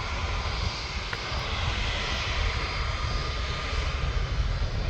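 Jet airliner's engines running steadily as it taxis, a broad rushing noise over a low rumble with a faint steady whine.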